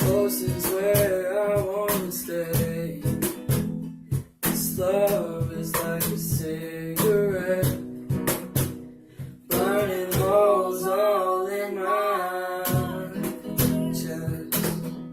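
Song with a strummed acoustic guitar and a voice singing a melody in three phrases.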